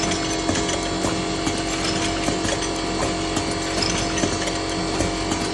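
Two-line automatic siomay (shumai dumpling) forming machine running: a steady motor hum with a regular clack of the forming mechanism about twice a second.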